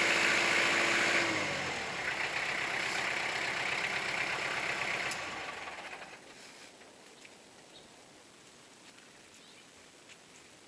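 Kubota L4600 tractor's diesel engine running steadily, then dropping in pitch about a second in as it is throttled down, and dying away around six seconds in as it is shut off. A few faint ticks follow.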